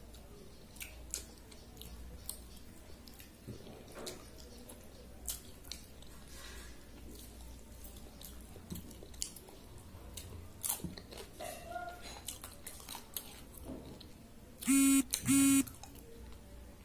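Close-miked chewing and soft mouth clicks of someone eating panta bhaat (water-soaked rice) by hand. About fifteen seconds in come two loud, buzzy electronic beeps, each about half a second long and close together.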